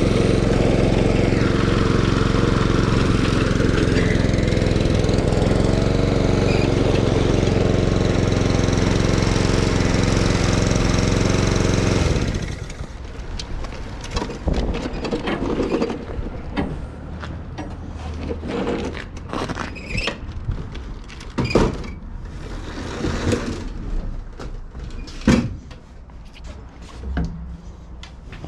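Stiga Euro 50SH lawn mower's petrol engine running steadily on its first start-up, shut off about twelve seconds in. After it stops come scattered clicks and knocks, two of them louder.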